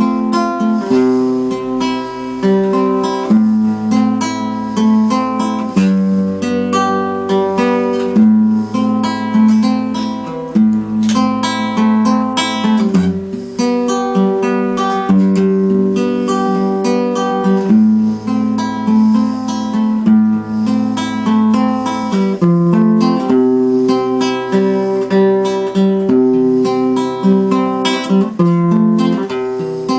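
Acoustic guitar playing an instrumental tune, picked chords over held bass notes at a steady, unhurried pace.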